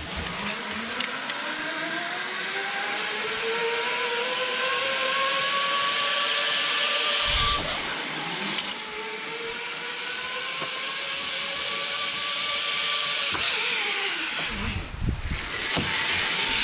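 Zipline trolley pulleys running along the steel cable: a whine over hiss that rises in pitch as the rider picks up speed, then holds steady. The whine breaks off about halfway through and rises again, with a third rise starting near the end.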